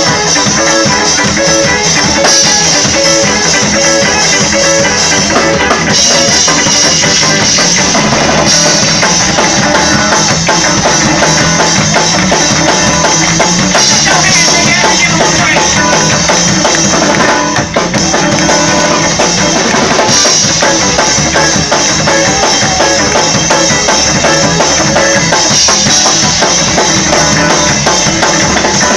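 Live church band playing a loud, up-tempo praise break on drum kit and guitar.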